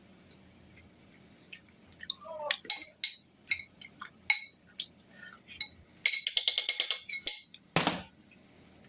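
Cutlery clinking and scraping against a dish while fried rice is scooped up to eat: a string of sharp clinks, a quick rattling run of clicks about six seconds in, then one louder clack.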